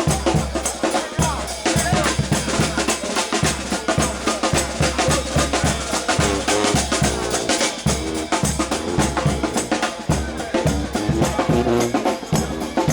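New Orleans brass band playing a second line groove, with the bass drum and snare drum beating out a steady rhythm under sustained pitched instrument lines.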